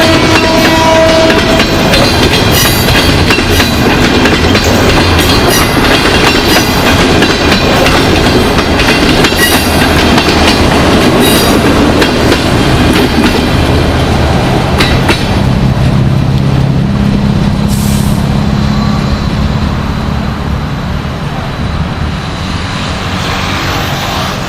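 Diesel passenger train passing close by: the locomotive's horn ends about a second in, then the coaches rumble past with wheels clacking over the rail joints, fading away near the end.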